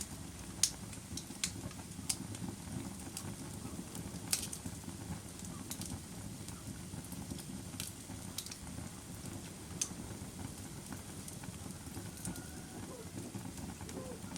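Bonfire crackling: a steady low rush of burning with irregular sharp pops and snaps, a few louder ones scattered through.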